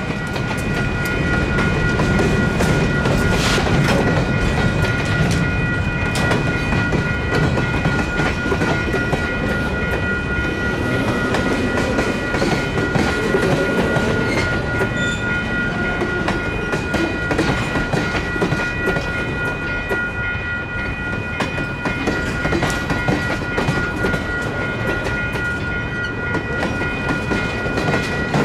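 Freight train rolling past a grade crossing: a steady low rumble with the wheels clicking over rail joints, and steady high ringing tones sounding above it.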